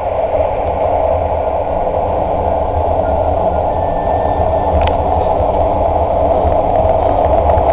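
Train running steadily through the Seikan Tunnel, heard from inside the carriage: a loud, even rumble of wheels on rail with a deep low drone underneath. A single sharp click comes about five seconds in.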